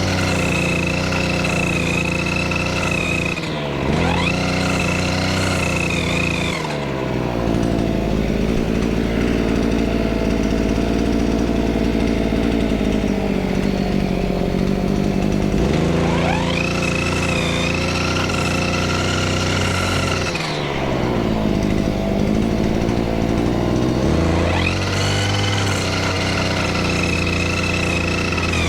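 Two-stroke brushcutter engine revved to high throttle, spinning its newly fitted gearbox cutting head, then let back down to idle for several seconds and revved up again twice. The engine runs on and responds to the throttle, the sign that the new coupler and cutting head are working.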